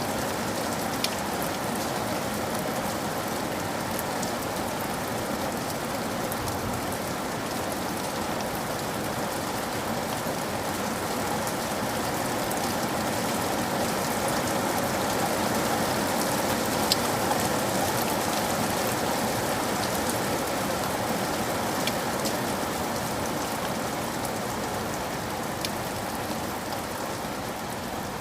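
Steady rain falling as an even hiss, with a few sharp single ticks scattered through it.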